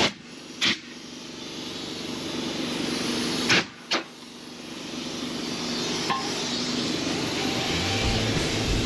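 Compressed air hissing as a truck tire is filled through an air hose, cut by sharp clicks about four times as the air chuck goes on and off the valve. After each click the hiss drops and builds back up.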